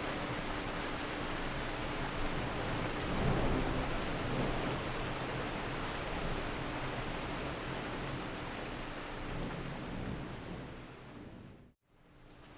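Steady heavy rain, with a low rumble of thunder swelling about three to four seconds in. Near the end the rain fades out briefly and comes back quieter.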